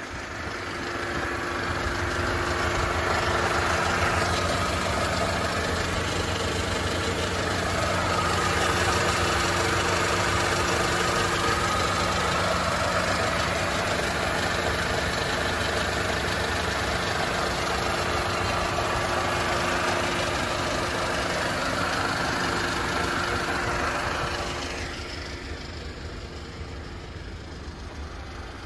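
Mercedes-Benz W211 E200 Kompressor's supercharged 1.8-litre four-cylinder petrol engine running steadily, growing louder over the first few seconds and dropping back about four seconds before the end. It carries a noise that the owner cannot explain and wants diagnosed, though the car runs at normal temperature with no coolant loss.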